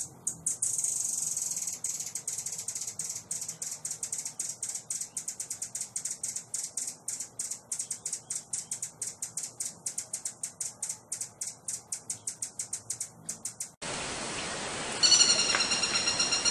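A songbird's rapid run of high-pitched repeated notes, about six a second, held for some thirteen seconds. Near the end it cuts off abruptly and another bird's clear whistled song starts over a background hiss.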